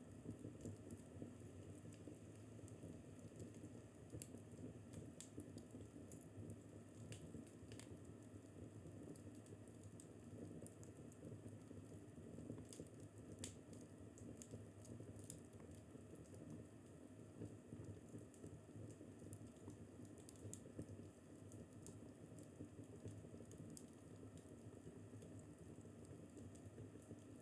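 Wood fire crackling faintly: scattered small pops and snaps, a few a second, over a soft steady low rumble.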